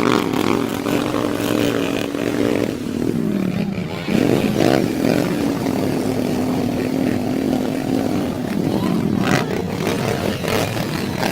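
Dirt bike engine revving: the pitch climbs and holds, dips about three seconds in, climbs again and holds steady, then falls away after about eight seconds.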